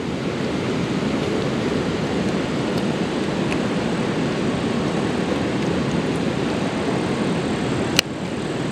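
Steady rushing noise of flowing creek water, with a single sharp click about eight seconds in.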